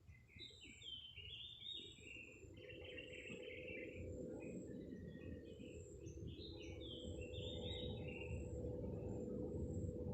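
Small birds chirping: many short, high chirps in quick clusters. Underneath, a low rumble grows louder, and a faint steady hum comes in about two seconds in.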